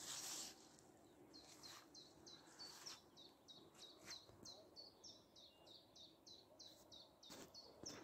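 Faint song of a small bird: a long, fast run of short, high chirps, each dropping slightly in pitch, about three a second. A brief rush of noise comes at the very start.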